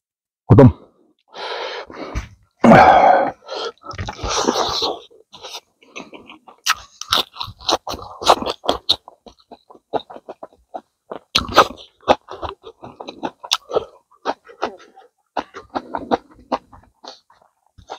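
Close-up eating sounds of a man chewing and crunching cooked rabbit head, with quick wet mouth clicks and smacks. A few louder breathy sounds come in the first five seconds. After that the chewing clicks run on rapidly.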